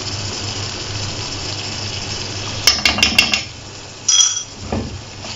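Beef qeema sizzling gently in a pan, then a quick run of clicks and taps about halfway through and, a second later, a single ringing clink of a utensil against a dish.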